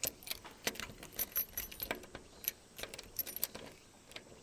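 A bunch of keys jangling, with a scatter of small, sharp metallic clicks as a key is worked into a door lock.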